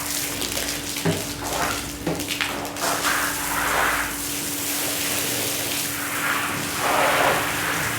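Wet shag rug being cleaned: repeated swishing strokes through soaked pile, about one a second, over a steady machine hum, with a few short clicks in the first three seconds.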